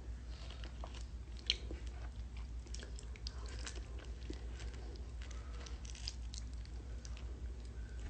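Someone eating a ripe mango up close: scattered wet chewing and biting sounds with small lip smacks, and one sharper click about a second and a half in, over a steady low hum.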